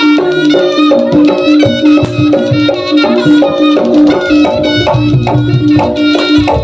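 Live Javanese jaranan accompaniment music: drums and tuned percussion play a fast, steady repeating pattern, with a reedy wind melody over them.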